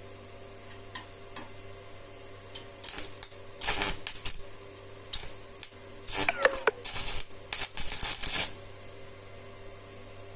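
Irregular metallic clinks and rattles: a few faint ticks at first, then louder clattering bursts from about three seconds in until near the end, with a short squeaking scrape in the middle, over a steady low hum.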